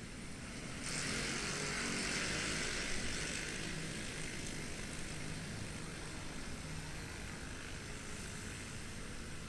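Road noise on a motorcycle ride through city traffic: a low engine rumble under a steady hiss. About a second in, a louder rushing hiss starts suddenly and fades over the next few seconds.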